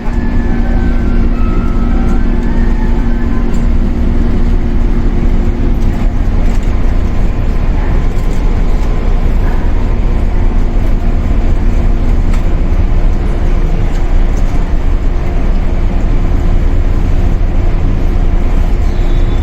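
Cabin sound inside a Shinano Railway 115-series electric multiple unit's motor car: a loud, steady low rumble with a steady electrical hum over it. One hum tone cuts out about twelve seconds in.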